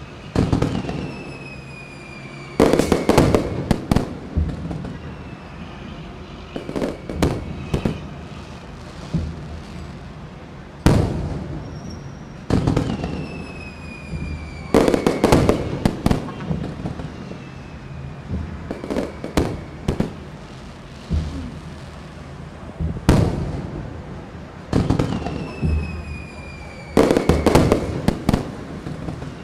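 Aerial fireworks shells bursting in the distance, a bang every couple of seconds with some in quick clusters, each trailing off in a rumbling echo. Three times a long falling whistle sounds: near the start, around the middle and near the end.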